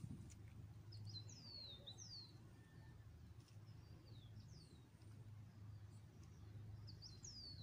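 Faint bird calls: thin, high notes that each slide down in pitch, in short clusters about a second in, around four seconds in and again near the end, over a low steady hum.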